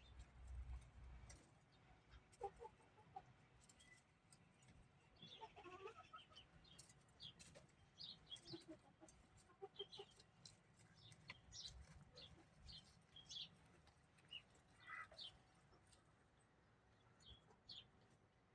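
Faint bird calls: many short, scattered high chirps, with a few lower clucking calls.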